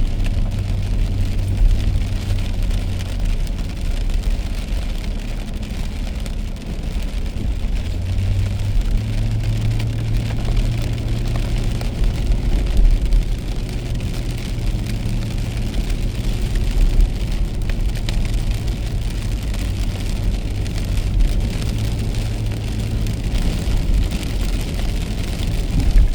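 A car driving on a rain-soaked road: a steady low engine and road hum under the hiss of tyres on wet pavement and rain on the car. The hum steps up slightly in pitch about eight or nine seconds in.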